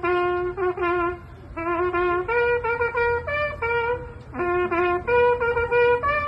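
Solo trumpet playing a slow, mournful call of long held notes with short breaks between phrases, a performance that listeners said could have been played better.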